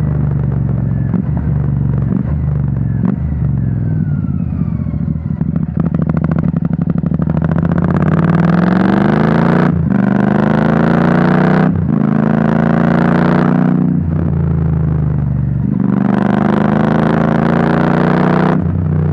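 Royal Enfield 650 parallel-twin engine through a Rhino Racing V4 slip-on exhaust: idling, then revved about four times. Each rev climbs, holds for a second or two and drops sharply back to idle.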